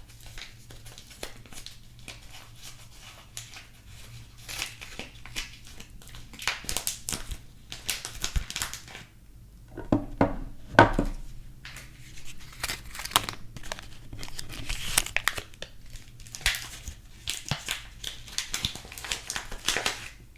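Soap wrapper being crinkled and torn open by hand, irregular crackling rustles in clusters, with a louder knock about halfway through.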